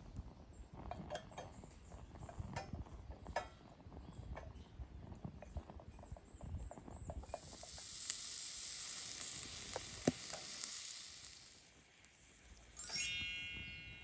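Scattered knocks and clinks, then about seven seconds in food sizzling in a hot grill pan for several seconds before fading away. Near the end a short, bright ringing tone, the loudest sound.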